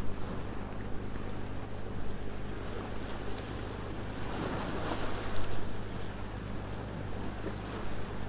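Ocean waves washing ashore, one wave swelling louder about halfway through, with a campfire crackling in a few faint pops.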